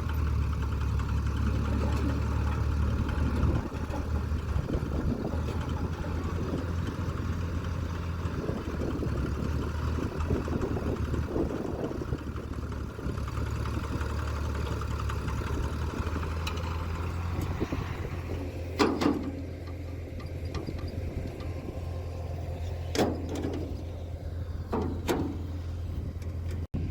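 Tractor engine running steadily. Three sharp knocks come in the last third.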